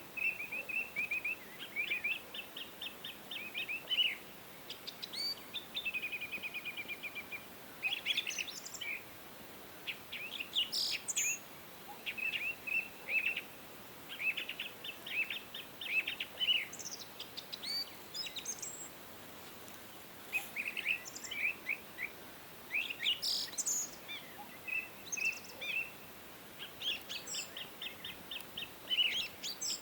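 Songbirds singing: quick trills and runs of repeated high chirps, one phrase after another with short pauses between, over a faint steady hiss.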